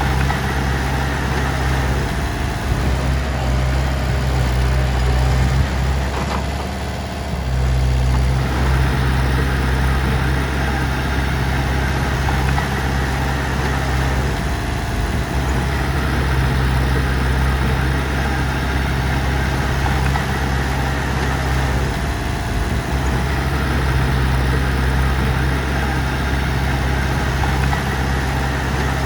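Heavy machine engine running steadily, easing off briefly about seven seconds in.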